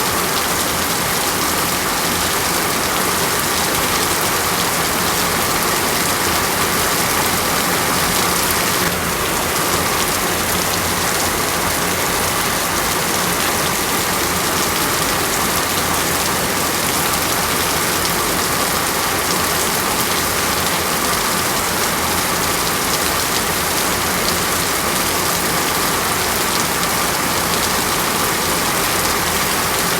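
Steady rain falling, an even dense hiss of drops on a surface.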